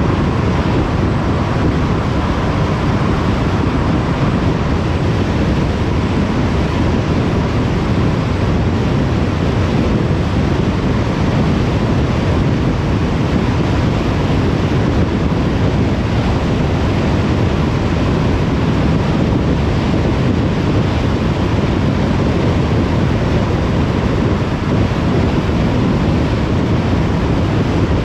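Steady road and wind noise of a car driving along a motorway, a constant deep rush with no change.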